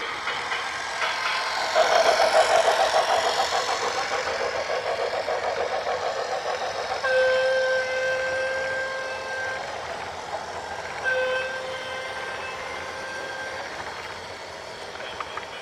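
Rhythmic clattering starting about two seconds in, then a horn sounding two long blasts.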